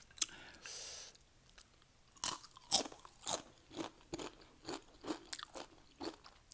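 Close-up chewing of crunchy Doritos nacho chips, one crunch about every half second, starting about two seconds in. A brief soft rush of noise comes near the start.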